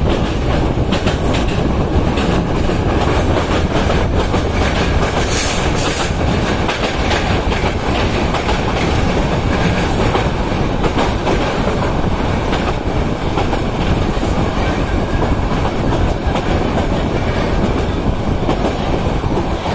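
Subarno Express passenger coach running at speed, a steady rumble of wheels on rail with clickety-clack over the rail joints, heard from an open window of the coach. A few brief hissy bursts come near the middle.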